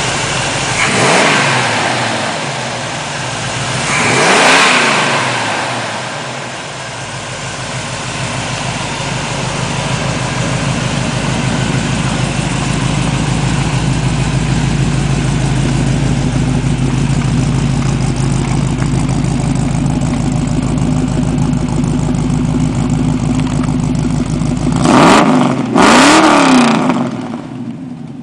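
1964 Chevy C10 pickup's engine running: revved twice, then settling into a steady idle, then blipped sharply twice in quick succession near the end.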